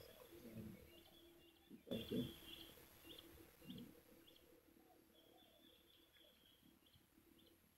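Near silence outdoors, with faint short bird chirps repeating every half second or so, and a soft knock of handling about two seconds in.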